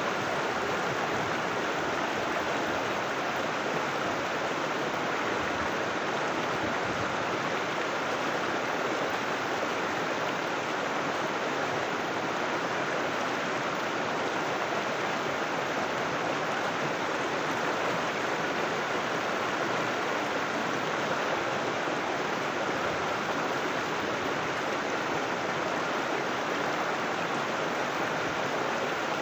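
River water flowing, a steady rushing with no breaks or changes.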